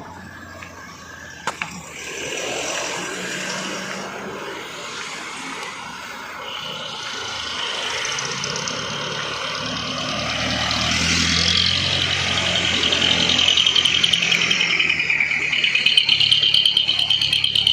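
Heavy truck engine labouring up a steep grade, growing louder as it comes closer, with a high whine building over the second half.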